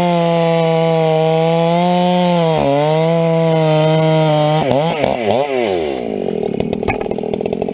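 Two-stroke chainsaw held at high revs under load as it cuts through wood, its note dipping briefly about a third of the way in, then rising and falling several times past the middle. The note turns rougher and lower in the last couple of seconds before stopping abruptly. The chain is cutting cleanly.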